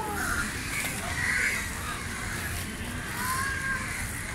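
A few harsh bird calls, spaced a second or so apart, over a steady low outdoor background noise.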